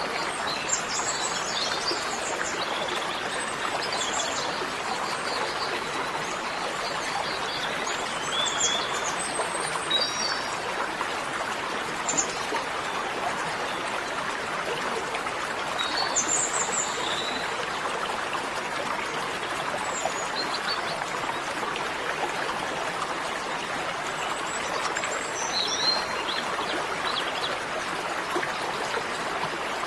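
Steady rushing water like a flowing stream, with scattered short bird chirps.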